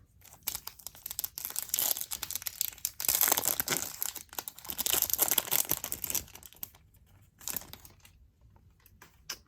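Foil wrapper of a 2019 Topps Chrome baseball card pack being torn open and crinkled: a dense crackle for about six seconds, then a few light rustles near the end.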